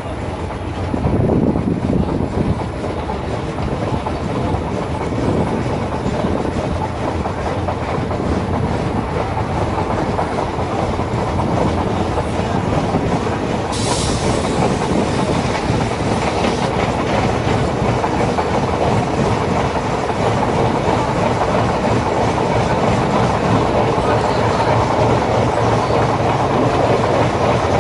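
DEMU diesel-electric multiple unit train running, heard from on board, its wheels clattering over the rail joints with a steady rumble. There is a brief hiss about halfway through.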